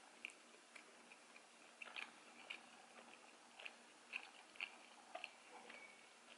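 Faint chewing of stretchy kiri mochi rice cakes: scattered small wet mouth clicks and smacks, irregular, a couple a second.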